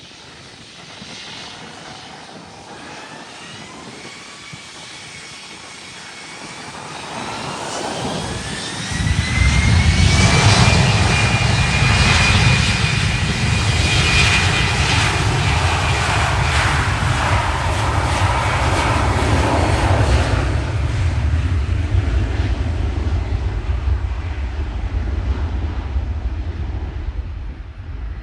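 Business jet engines spooling up with a rising whine, then a loud low roar starting about nine seconds in as the jet takes off, fading slowly near the end.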